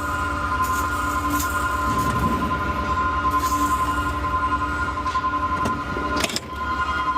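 Small rear-loader garbage truck standing with its engine running and a steady high hydraulic whine from the packer system, with a few sharp knocks and clatter; the loudest knock comes about six seconds in.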